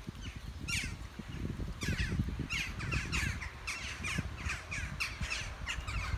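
Several birds giving short, harsh, falling calls, two or three a second and overlapping, over a low rumble.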